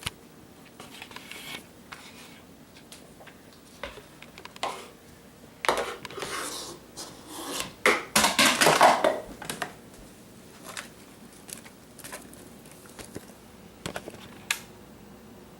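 A small child's hand tapping, rubbing and scratching on a hard surface: scattered light taps, with a louder stretch of scraping and rubbing in the middle.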